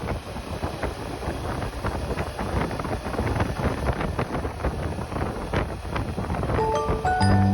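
Wind buffeting the microphone on a moving motorcycle, a rough gusting rush. Music with steady notes comes in near the end.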